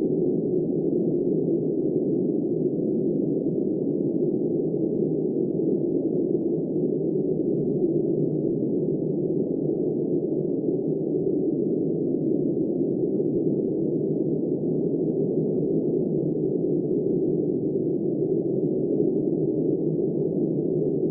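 Steady, muffled rushing of wind noise, low and dull, holding an even level with no gusts or changes.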